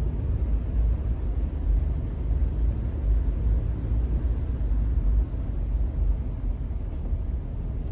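Steady low rumble of a vehicle on the move, easing slightly about five seconds in.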